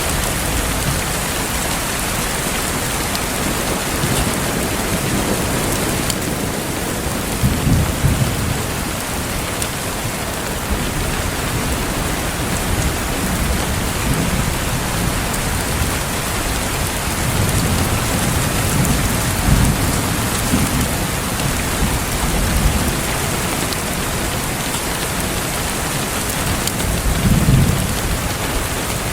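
Steady rain with low rolls of thunder swelling up several times, the strongest about a third of the way in and just before the end.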